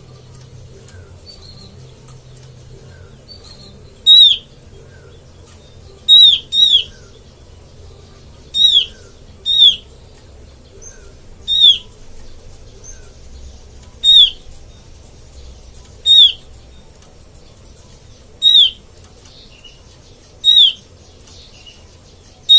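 Opior bird calling: a loud, short downslurred whistle repeated about every two seconds, sometimes in quick pairs, starting about four seconds in, with fainter chirps in between. A call of the kind played as a lure (suara pikat) to draw in opior.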